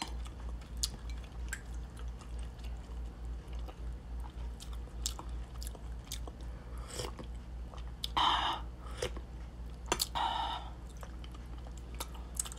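A person chewing beef bulalo close to the microphone, with many small wet mouth clicks and two short breathy sounds about eight and ten seconds in. A low steady hum runs underneath.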